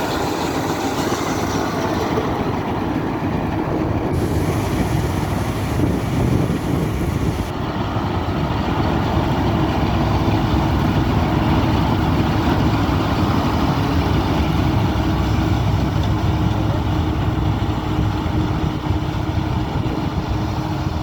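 Combine harvester running steadily while harvesting: a continuous loud rumble and whirr of engine and threshing machinery.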